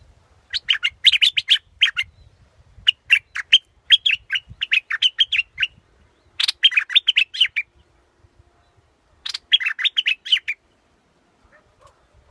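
Bulbul of the kind called 'nok dok taeng' in Thai singing in five quick phrases of rapid, bubbly chirping notes with short pauses between, a recording used as a decoy call to lure the bird.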